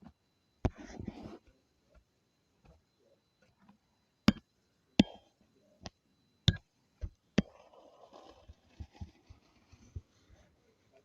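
Scattered sharp taps and clicks on a hard surface, several in the middle, with brief stretches of soft rustling or scraping between them.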